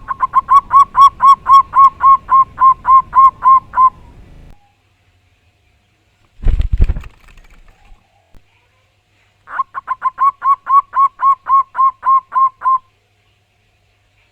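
Zebra dove (perkutut) cooing: two runs of quick, evenly repeated coo notes, about five a second. Between them comes a single short, loud thump.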